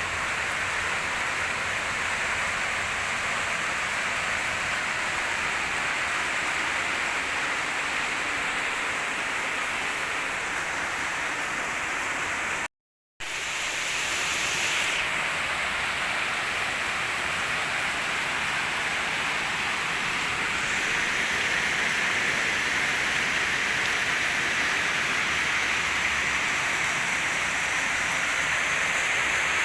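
H&L QL-1200 jet cleaner spraying water from its nozzle: a steady hiss of spray, cut off for a moment about halfway through.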